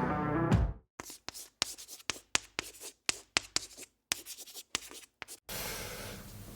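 Music cuts off in the first second. A quick run of about twenty short, sharp scratching strokes follows, four or five a second, with silence between them. Steady room tone comes in near the end.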